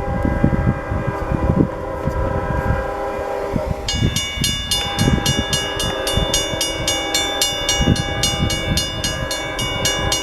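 CSX manifest freight train passing, its horn sounding in a steady chord over the rumble and clatter of the wheels. About four seconds in, a bell starts ringing rapidly, several strikes a second.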